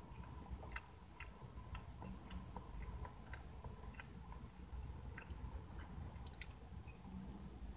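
A person chewing a soft pastry close to the microphone: faint, irregular wet clicks of the mouth, with another bite about six seconds in. A faint steady high hum runs underneath.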